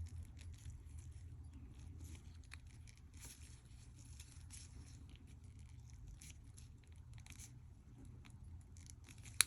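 Faint small clicks and light scraping of tiny Casio F91 watch parts being handled and fitted together, over a low steady hum, with a sharper click near the end.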